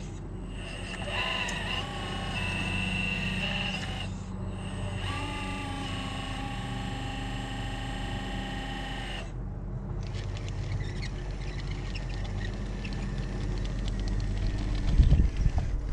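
Electric motor and gear whine of a radio-controlled crawler, steady with occasional shifts in pitch, that stops about nine seconds in. Wind buffets the microphone throughout, with heavy gusts near the end.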